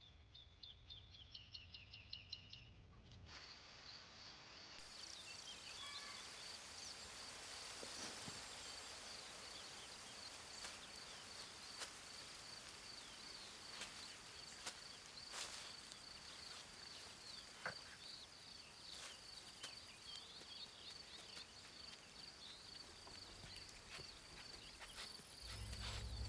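Faint outdoor ambience: an insect trilling steadily at a high pitch, with a few short bird chirps in the first three seconds.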